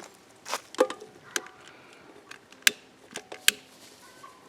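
A handful of sharp, irregular clicks and light knocks from handling a beekeeping smoker as the pine needles packed inside it are being lit.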